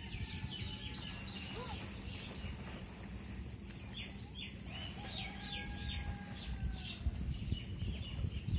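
Birds chirping: two runs of rapid, short high notes, one near the start and another about four seconds in, over a steady low rumble.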